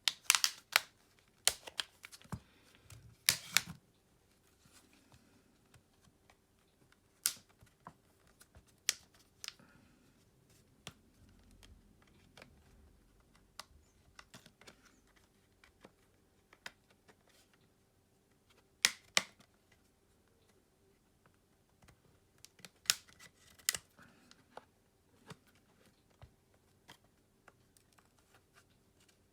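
Scattered sharp clicks and taps of small hand tools and plastic parts on a Xiaomi Redmi 10 5G smartphone being taken apart. There is a burst of clicks at the start, single clicks spaced seconds apart, and another cluster near the end, over a faint steady hum.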